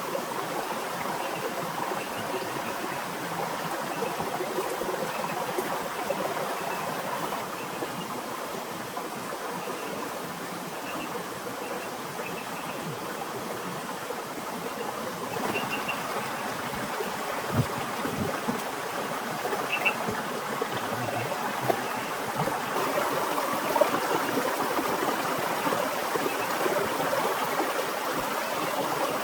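Steady rushing of water, with a few faint knocks.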